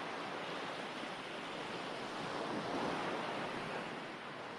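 Recorded ocean waves washing on a shore: a steady surf hiss that swells gently midway and eases off near the end.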